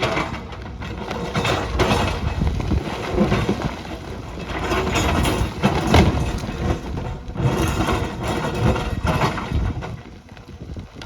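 Heavy earthmoving machinery at work: an engine running under irregular knocks and scraping, rising and falling in loudness.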